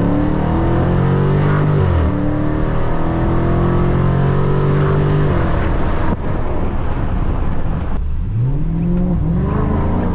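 Dodge Scat Pack's 392 HEMI V8 accelerating hard through the gears: the engine note climbs, drops at an upshift about two seconds in, climbs again until about five seconds in and then falls away as the throttle eases. Near the end it climbs once more, with another shift just before the close.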